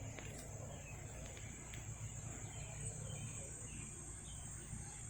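Faint outdoor background: insects trilling in a steady high-pitched band, over a low rumble of background noise.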